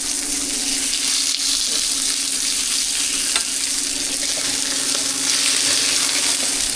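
Food frying at a street-food stall, a steady hiss of sizzling over a steady low hum, with a single sharp click about three and a half seconds in.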